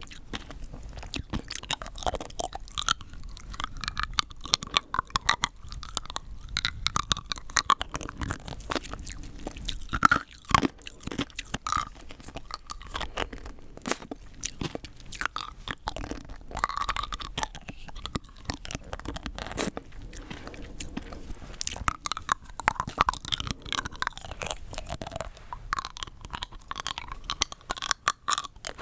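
Rock candy crystals being bitten and chewed close to the microphone: a dense run of sharp, brittle crunches, with the loudest bites about ten seconds in.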